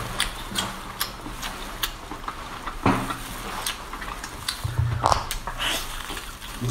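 Close-miked chewing and wet mouth sounds from eating sauce-coated octopus: many small sharp clicks and smacks, with a louder squelchy bite about three seconds in and again about five seconds in.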